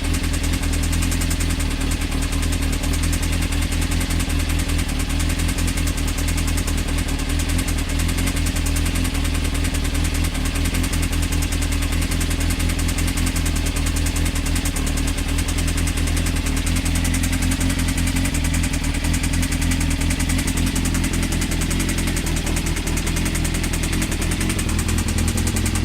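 Honda CBR motorcycle engine running steadily with a rapid knock, which the owner takes as the sign of a connecting rod loose on the crankshaft.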